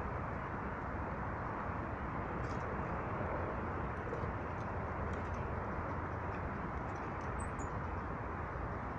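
Small birds giving a few faint, short, high chirps over a steady low rushing background noise.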